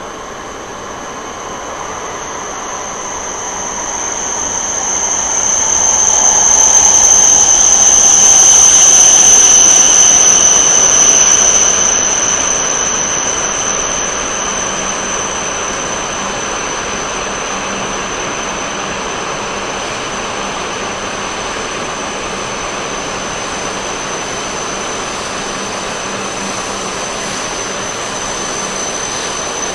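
A train passing. Its sound builds to a loud peak about nine seconds in, with a falling pitch as it goes by, then settles into a steady running noise.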